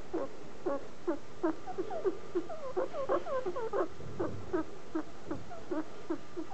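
Guinea pig making a long run of short, pitched chirps, about three a second. The chirps crowd together faster in the middle and then settle back to the steady pace.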